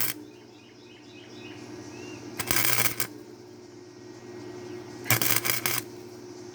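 Wire-feed welder arc crackling in two short tacks of under a second each, about two and a half and five seconds in, on steel bedframe metal, over a steady low hum. The welds are filling a hole burned through the thin metal. Faint bird chirps near the start.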